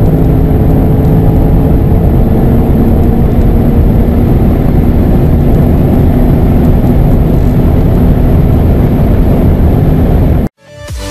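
Twin-turbo V8 SUV heard from the cabin at full throttle near 250 km/h: a steady, loud engine drone over wind and road noise, with the engine tones holding in a high gear. It cuts off suddenly about ten seconds in, and electronic music starts just after.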